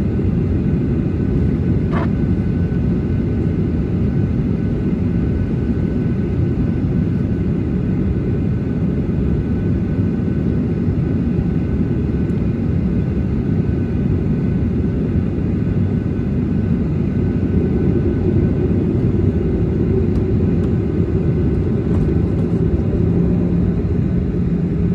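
Boeing 737-800 cabin noise while taxiing: a steady low rumble from the CFM56 engines at taxi power and the aircraft rolling along the taxiway. A low steady hum comes in near the end.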